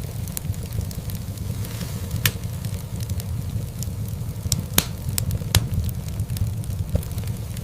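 Wood fire burning in a fireplace: a steady low rumble of flames with irregular sharp crackles and pops, three louder pops standing out about two, five and five and a half seconds in.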